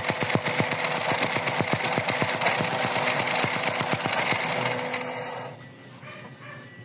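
Suzuki Celerio engine running roughly with a rapid, pulsing chug of about seven beats a second, the sign of its misfire. The sound drops off sharply about five and a half seconds in.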